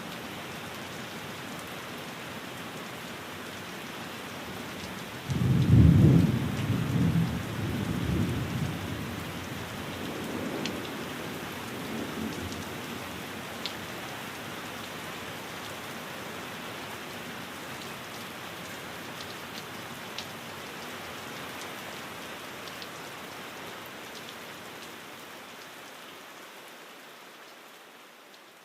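Steady rain pattering, with a roll of thunder that breaks in about five seconds in and rumbles on in waves for several seconds before dying away. The whole sound fades down near the end.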